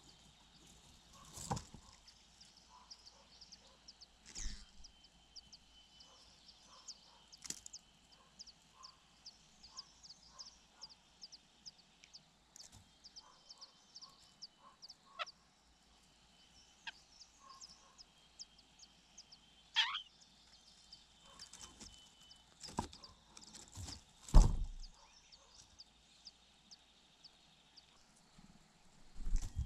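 Outdoor nest-side ambience: a faint, regular high chirping about twice a second over a thin steady high tone, broken by several sharp knocks, the loudest about two-thirds of the way through. About 20 seconds in there is a single call that falls steeply in pitch.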